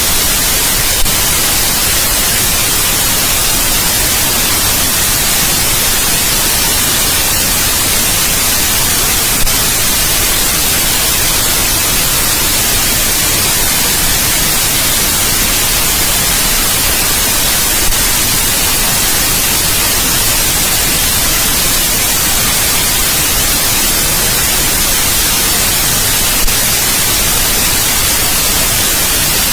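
Steady, unchanging electronic white noise, a loud even hiss across the whole range, brightest in the treble. A faint click recurs about every eight and a half seconds.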